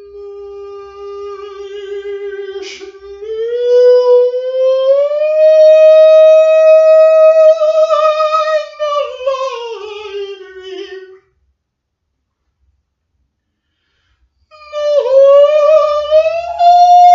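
A solo voice singing long, held wordless notes. The pitch holds, glides slowly upward and holds again, then sinks and stops about eleven seconds in. After a few seconds of silence a new note starts, sliding up.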